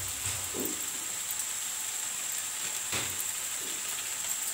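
Onion-tomato masala frying in an iron wok, a steady gentle sizzle, with two light knocks, one just after the start and one about three seconds in. A thin steady high-pitched tone runs underneath.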